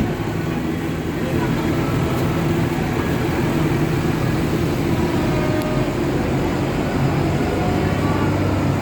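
Tractor engines running with a steady low drone.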